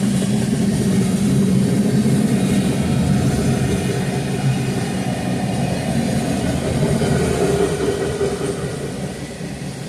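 Freight train cars rolling past close by, a steady rumble of steel wheels on the rails that eases off slightly near the end.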